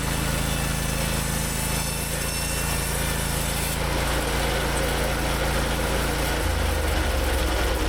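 Hud-Son HFE-33 bandsaw mill's gas engine running at speed with the band blade sawing through a log. About four seconds in the high sawing hiss falls away, and near the end the engine note drops as it slows toward idle.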